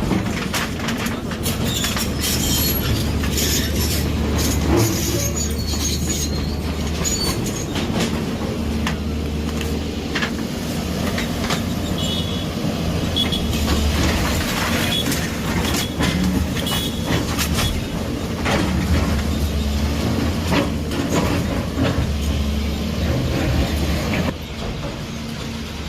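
Heavy demolition machinery at work: a diesel engine running with a low rumble that swells and eases, amid many sharp knocks and clanks of metal and breaking debris, and a brief high squeal near the middle.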